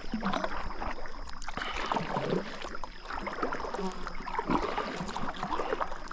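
Water splashing and lapping around a kayak in a strong river current, with irregular small knocks and splashes.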